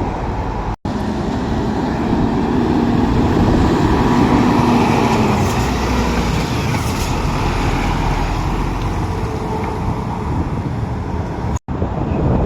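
Road traffic with a heavy vehicle passing close: an engine tone under the tyre noise swells to its loudest about four to five seconds in, then fades back. The sound drops out for an instant near the start and near the end.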